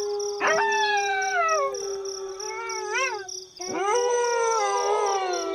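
A pack of wolves howling in chorus: one howl held at a steady pitch under several others that overlap. One voice rises sharply about half a second in and slides slowly down, a short rising-and-falling howl comes about three seconds in, and another howl rises just after.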